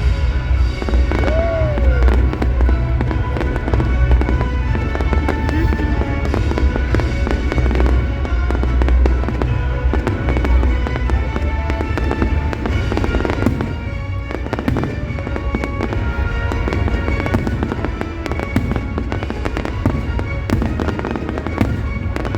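Fireworks display: dense crackling and banging bursts over loud music played with the show, with heavy low booms through the first half.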